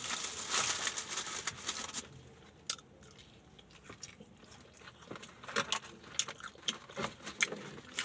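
Close-up biting and crunching of crispy fried food, with sharp crackles as it is chewed, busiest in the second half. A rustle of the food's paper wrapping or box sounds in the first two seconds.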